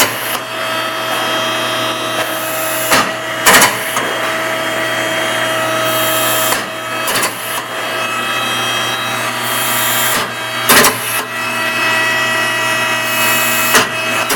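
A machine running steadily with a hum and several held whining tones, broken every few seconds by loud clicks or knocks: the odd noise is still there.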